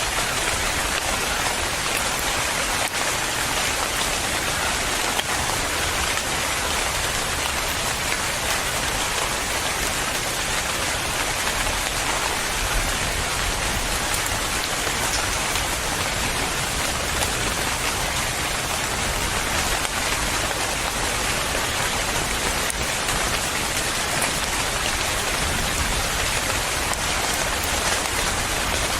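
Steady, even rain falling on a surface, with a dense patter of drops and no let-up.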